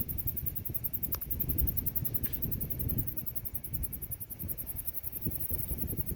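Insects trilling in a high, fast, even pulse over a low, uneven rumble.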